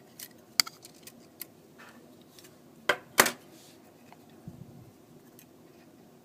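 Small clicks and taps of hand tools and tiny parts during an iPhone 4S teardown, with two sharper clicks close together about three seconds in.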